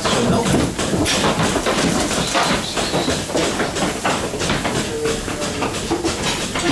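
Goat milking parlour din: a steady hiss with dense, irregular metallic clicking and clattering throughout.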